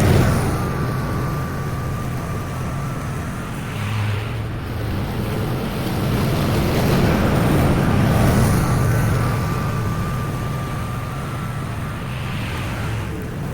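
Petrol lawn mower engine running steadily while mowing, its level swelling and easing every few seconds.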